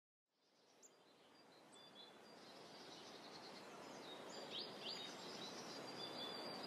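Faint outdoor ambience fading in from silence: a soft hiss with birds chirping, and a few quick, sharp downward chirps from about halfway through.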